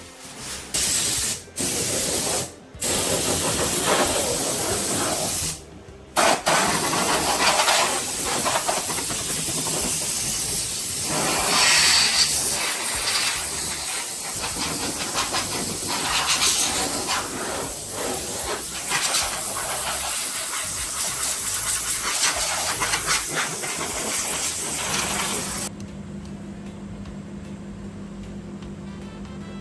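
Spray painting: the hiss of paint being sprayed, first in a few short bursts, then in one long continuous pass that cuts off suddenly near the end.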